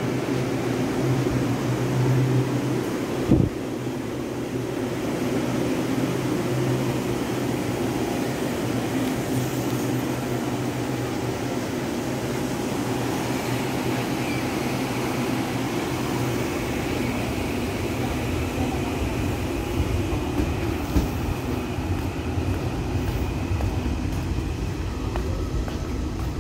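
Taiwan Railways electric multiple unit trains running through the station, a steady rumble of wheels on rail and traction equipment.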